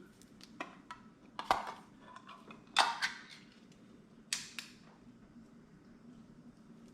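Kitchen handling sounds as a can of cream of mushroom soup is opened and emptied: a handful of sharp clinks and knocks of metal, the loudest about three seconds in with a brief ring.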